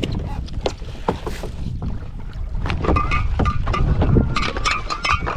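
Wind buffeting the microphone aboard a small fishing boat, a steady low rumble with scattered knocks and clatter.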